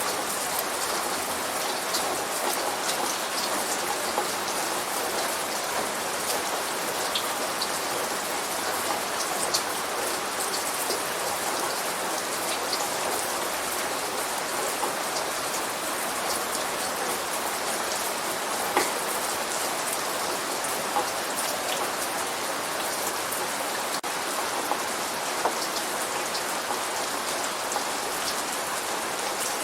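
Steady light rain falling, an even hiss with many scattered drop ticks on a surface.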